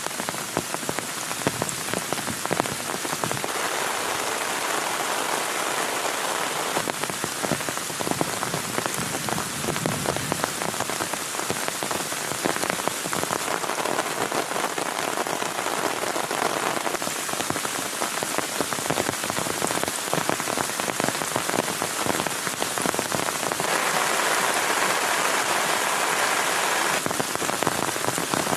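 Heavy rain falling steadily, a dense patter of individual drops striking, growing a little heavier about two-thirds of the way in.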